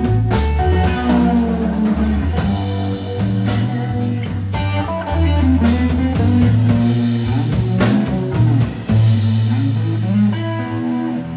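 Live blues trio playing: electric guitar over a walking bass line and drum kit.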